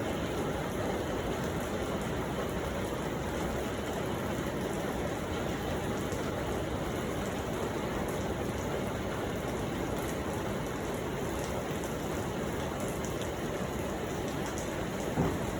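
Steady rain falling, an even hiss with faint scattered drop ticks. There is one brief sharp knock near the end.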